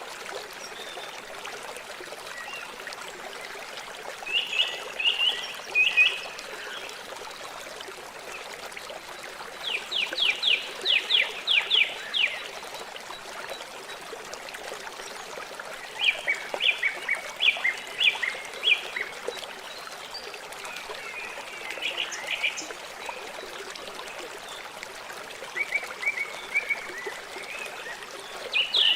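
River water flowing steadily, with a bird singing short phrases of quick high notes about every five or six seconds.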